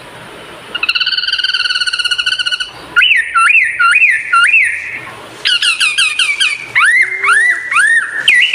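A songbird singing loudly up close in varied whistled phrases: a warbling held note about a second in, then four repeated looping whistles, then quick runs of notes and three rising whistles near the end.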